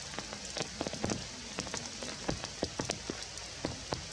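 Steady rain falling, with many irregular sharp drop hits close by on top of an even wash of rain noise.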